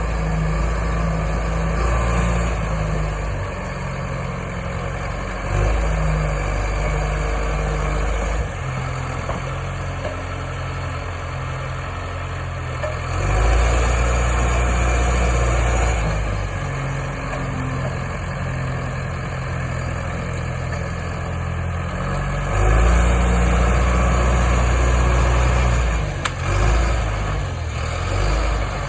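John Deere 450G crawler dozer's diesel engine running steadily, its pitch stepping up and down as it works. It gets louder twice under heavier throttle, once about halfway through and again near the end.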